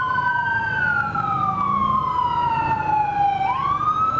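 Two police car sirens wailing at once, each sliding slowly up and down in pitch out of step with the other, over a low traffic rumble.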